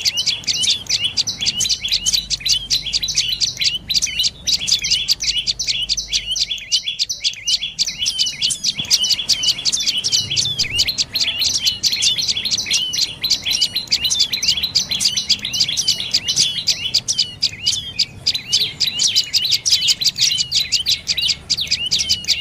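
Dark-necked tailorbird calling: a continuous run of short, high, sharp notes repeated several times a second.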